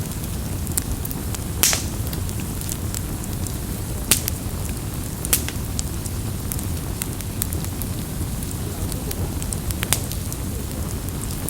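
Campfire burning: a steady low rumble of flames with frequent sharp crackles and pops, a few of them louder and scattered through.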